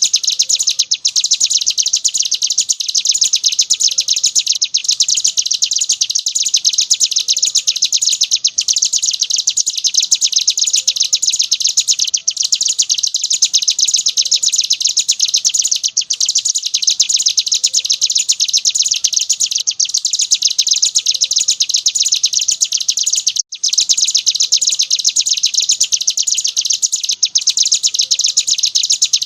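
Ciblek gunung, a prinia, singing a continuous, very rapid, high-pitched chattering song (the non-stop 'ngebren' style), broken only by brief pauses every few seconds.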